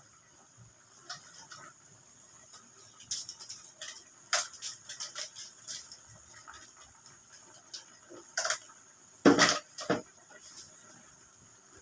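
Cookware being handled during cooking: scattered clinks and knocks of a utensil against a pot, the loudest cluster near the end, over a faint steady hiss of the pot cooking.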